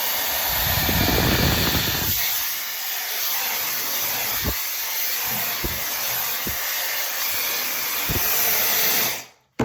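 Tymo Air Hype blow dryer running steadily with a hiss of rushing air, a low rumble about a second in and a few soft knocks; it switches off about nine seconds in, followed by a click.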